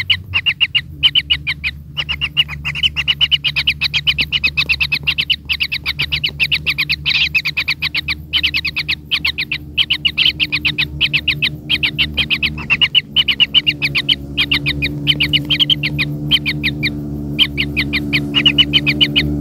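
Kingfisher chicks calling from the nest: a fast, unbroken series of short high chirps, several a second, over a low steady hum.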